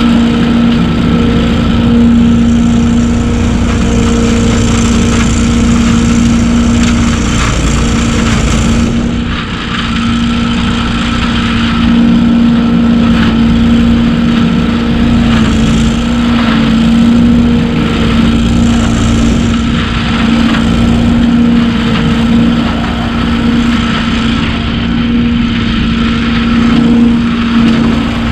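BillyGoat debris loader's gas engine and impeller running steadily at a constant pitch as it vacuums up wet leaves, with a rough rushing noise and irregular rattles from the material being drawn through.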